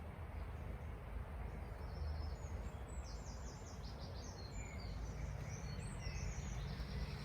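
Birds singing in the background: runs of short, high, repeated chirps starting about a second and a half in, over a steady low rumble.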